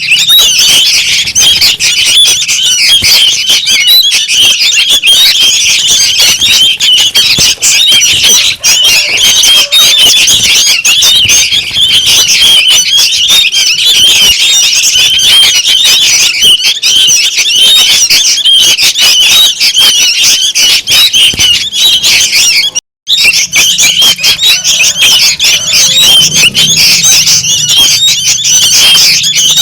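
Young sooty-headed bulbuls calling noisily: a dense, unbroken chorus of high, squeaky chattering calls, the kind played as a lure for bulbuls. It cuts out for a split second about three quarters of the way through.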